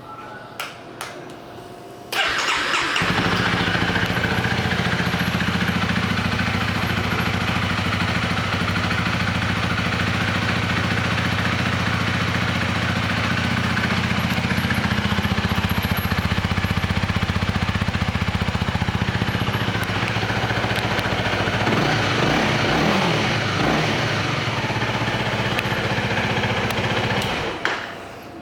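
2017 Honda Rebel 300's single-cylinder engine, started on the electric starter after a few switch clicks about two seconds in, then idling steadily. It is revved briefly a few times about three-quarters of the way through and shut off near the end.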